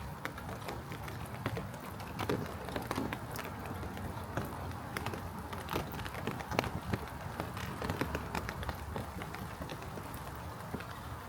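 Footsteps of a person walking on pavement, with many short, irregular ticks and taps over a steady low rumble.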